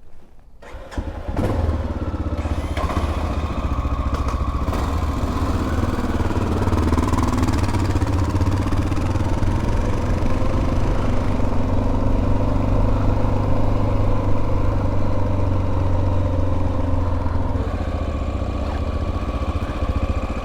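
Motorcycle engine starting about a second in, then running steadily.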